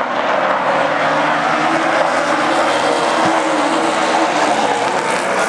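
Baby Grand race cars running at speed on the oval, a loud steady drone of several engines together, their notes overlapping and shifting in pitch.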